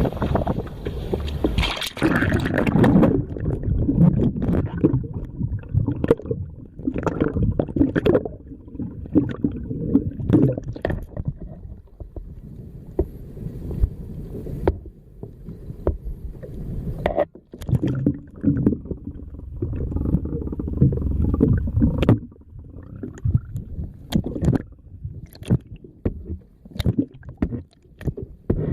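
Muffled, low-pitched water sloshing and gurgling around a kayak being paddled, with scattered sharp knocks.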